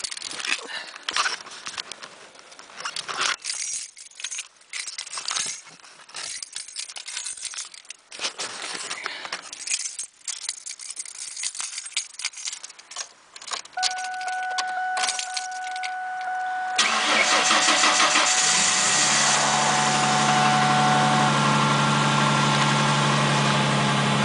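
Keys jangling and clicking for about fourteen seconds, then a steady whine. At about seventeen seconds the 2000 Ford Mustang's engine is cranked and fires from a cold start at −15 °C, settling into a steady idle. The owner says it started a little rougher than usual.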